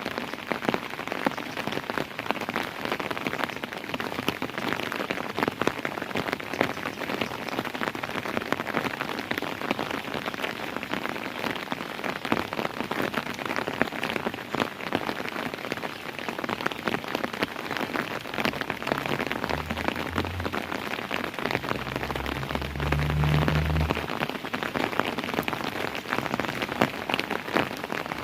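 Steady rain falling, with many separate drops striking a surface throughout. A low rumble swells for a few seconds near the end.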